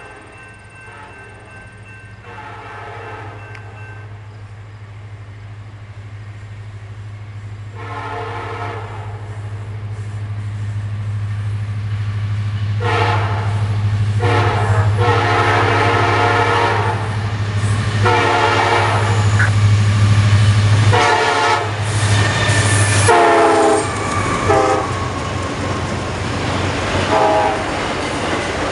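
A train approaching and passing while its locomotive air horn sounds a series of blasts, the middle ones long. Under the horn a steady engine rumble grows louder, the horn's pitch drops as the locomotive goes by, and the rattle of the passing wheels follows near the end.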